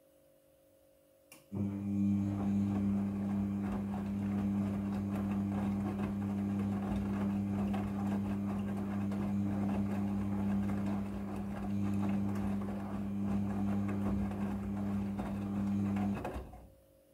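A small electric motor switched on with a click, running with a steady hum and a dense rattle for about fifteen seconds before stopping abruptly.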